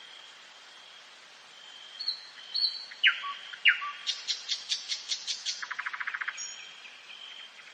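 Nightingale singing a varied phrase: after a quiet start, a few short whistles, two sharp downward-sweeping notes, then a fast run of loud repeated clicking notes, a quick rattling trill and a brief high whistle near the end. A faint steady high tone runs underneath.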